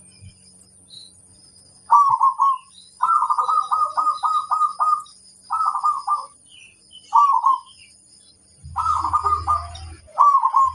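Zebra dove (perkutut) song: six rapid, stuttering coo phrases, each under a second or two long and a second or so apart. Faint high chirps and a thin steady high tone sit behind them, and a low hum comes in near the end.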